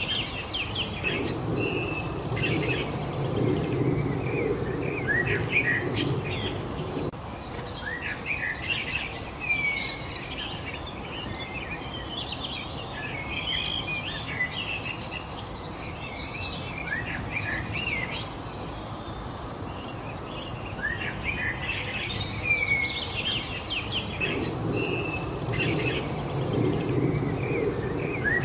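Several small birds chirping and singing in quick, overlapping calls over a steady low background noise. The background swells during the first several seconds and again near the end.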